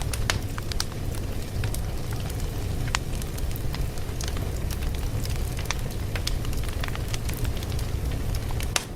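Fire crackling: a steady low rumble with frequent irregular pops and snaps, one louder snap near the end.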